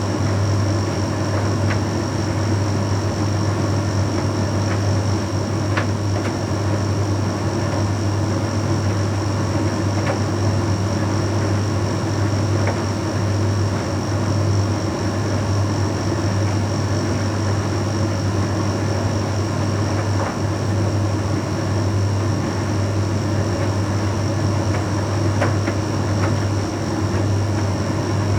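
Bosch Series 6 WQG245R9GB heat pump tumble dryer running a Shirts cycle: a steady low hum with a thin high whine over it, with a few faint ticks from time to time.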